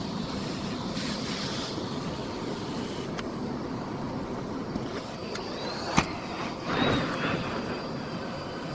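Miele Blizzard CX1 bagless canister vacuum cleaner running steadily, with a few sharp clicks, the loudest about six seconds in, and a short louder rush of noise about a second after it.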